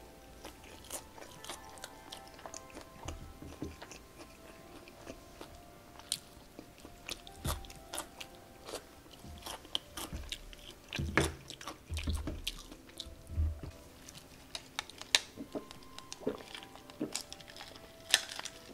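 Close-up eating sounds of a crispy Korean fried chicken drumstick: bites and irregular crunches of the fried coating mixed with wet chewing.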